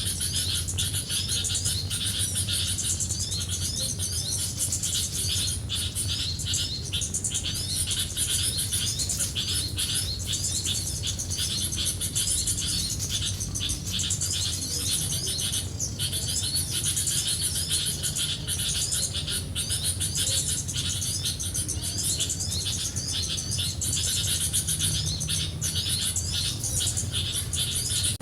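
Small birds chirping steadily: rapid high arching notes repeated several times a second, over a steady high hiss.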